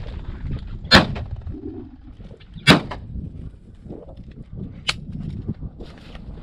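Two shotgun shots at flushing chukar, about a second and a half apart, with a fainter sharp crack a couple of seconds later, over wind rumbling on the microphone.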